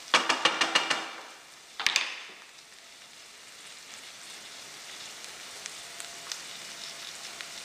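Onion frying in oil in a stainless steel pot, stirred with a wooden spoon for the first second with quick scraping clicks. A single knock about two seconds in as the spoon is laid down, then a steady, quiet sizzle.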